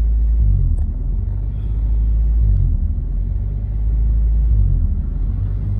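A low, uneven rumble with no clear pitch.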